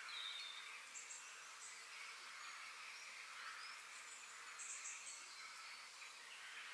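Faint forest birdsong: short high chirps in clusters, about a second in and again around five seconds in, over a steady faint background hiss.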